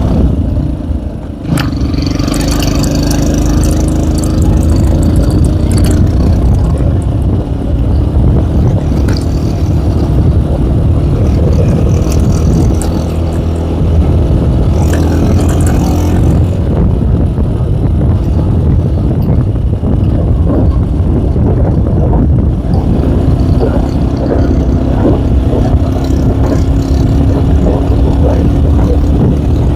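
Tomos ATX motorcycle engine running steadily under load on a steep climb, with a brief dip in engine sound about a second and a half in.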